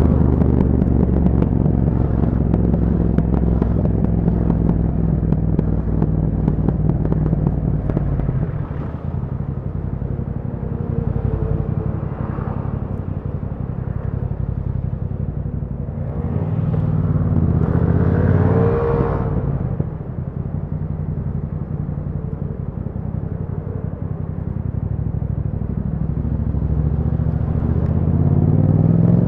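2021 Yamaha MT-07's 689 cc parallel-twin engine running through an Akrapovic exhaust in city riding. It slows with falling revs over the first several seconds, then runs at low revs, with a brief rise and fall about eighteen seconds in, and picks up revs again near the end.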